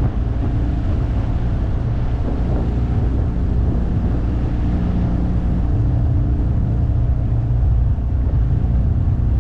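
9.8-horsepower outboard motor running steadily under way, a steady engine drone with the rush of wind and water over it.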